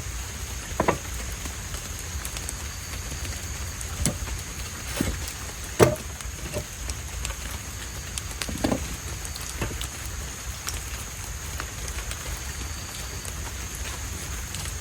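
Steady rain falling, with scattered louder taps of single drops striking a surface, the sharpest about six seconds in.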